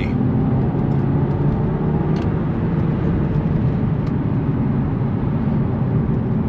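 Audi TT 2.0 FSI turbo four-cylinder engine and road noise while driving at speed: a steady drone.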